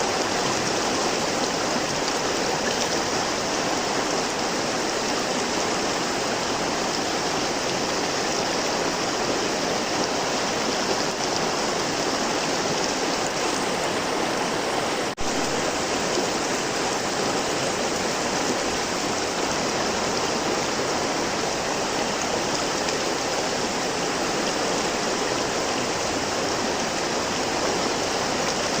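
River water flowing steadily, a continuous rushing noise with a brief dropout about halfway through.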